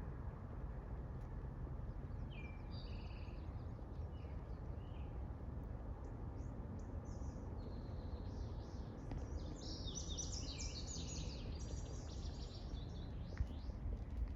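Songbirds singing over a steady low outdoor rumble: a few short chirps early, then a busier run of high song phrases from about two-thirds of the way in.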